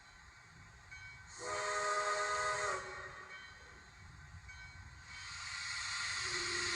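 A steam locomotive whistle gives one chord blast lasting about a second and a half, starting about a second and a half in. Near the end a hiss builds, joined by a lower steady tone.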